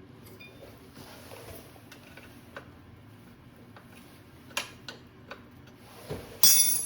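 Metal tools and parts being handled: scattered light clicks and taps, then a loud metallic clank with a brief high ring near the end.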